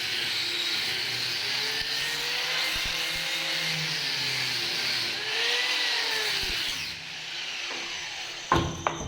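Hand-held power tool running against a cricket bat during cleaning, a steady hiss with its pitch rising and falling twice as it is worked over the wood. It dies down about seven seconds in, followed by two sharp knocks near the end.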